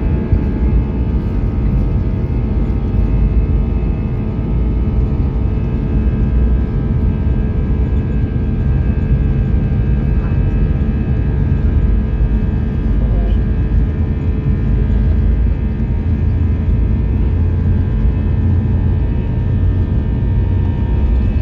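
Airbus A320 jet engines and rushing air heard from inside the passenger cabin during takeoff: a loud, steady rumble with a constant whine.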